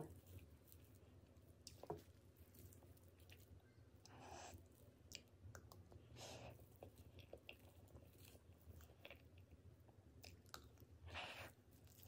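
Faint close-up eating sounds: soft chewing and wet mouth noises from mouthfuls of cream-frosted strawberry cake, with a few short swells and scattered light clicks.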